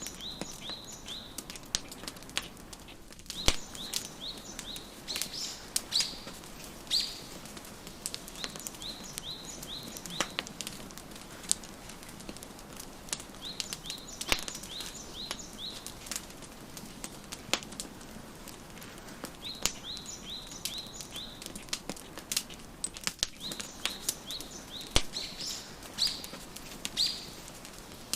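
Wood fire crackling and popping with frequent sharp snaps, under a steady soft hiss. Songbirds repeat runs of short, high chirps every few seconds.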